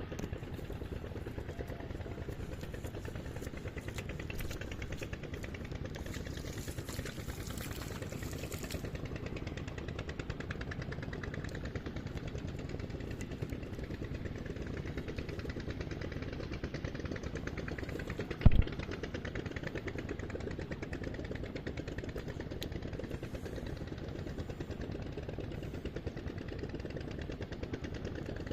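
A small engine running steadily with a fast, even pulse, and one loud sharp thump about two-thirds of the way through.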